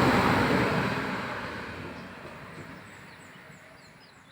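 A passing vehicle: its noise is loudest at the start and fades away over a few seconds. Faint bird chirps come in near the end.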